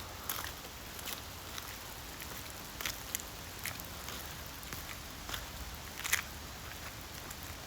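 Rain falling in a steady hiss, with scattered drops tapping, the loudest tap about six seconds in.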